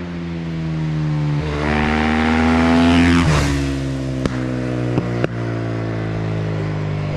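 Husqvarna FE 450 single-cylinder four-stroke engine with an Akrapovic exhaust, idling, then revved up with the pitch rising for about two seconds. The throttle is then shut so the revs fall quickly back to idle, and three sharp pops follow from the exhaust as it settles.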